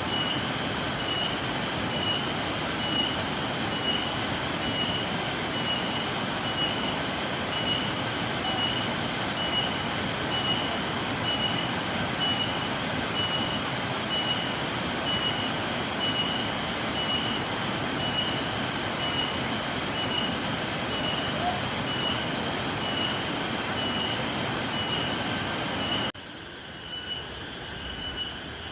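Waterfall rushing steadily, with a chorus of cicadas pulsing in a regular rhythm over it. About 26 s in, the whole sound drops suddenly to a quieter level, and the pulsing goes on.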